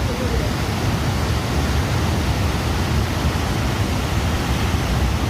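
Heavy rain falling: a steady, even rushing noise with a strong low rumble.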